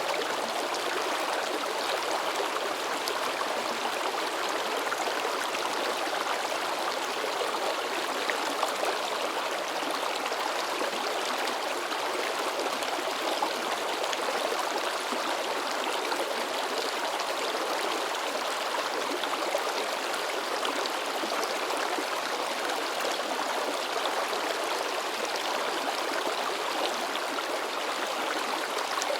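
A shallow river babbling and splashing over rocks: a steady rush of running water with fine splashy detail that does not let up.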